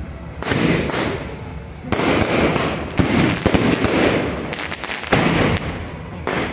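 Aerial fireworks going off overhead: a quick series of about five sudden bursts, each trailing off into crackling.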